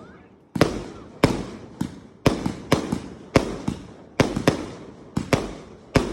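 Fireworks going off: about a dozen sharp bangs at irregular spacing, roughly two a second, each echoing away.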